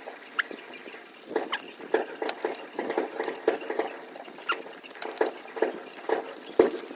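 Close-up mouth sounds of someone eating: chewing with wet smacks and clicks, about two a second at an uneven pace.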